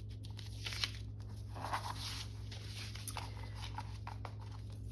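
Paper being handled and rustled in short bursts during cutting and layout, over a steady low hum.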